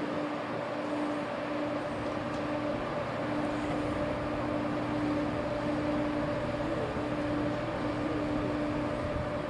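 A train running with a steady drone and a constant low hum, holding an even level throughout.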